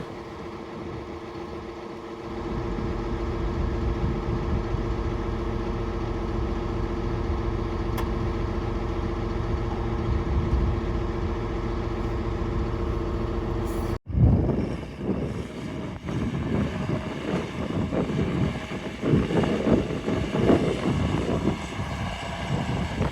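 John Deere 4955 tractor running under steady load, a constant engine hum that grows louder about two seconds in. After an abrupt break about halfway through, the sound turns into an uneven rumble with louder surges.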